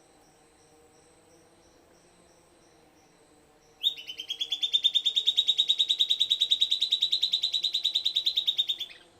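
Silvered antbird singing: one fast trill of about ten evenly repeated notes a second, starting about four seconds in, rising slightly in pitch over about five seconds and then stopping.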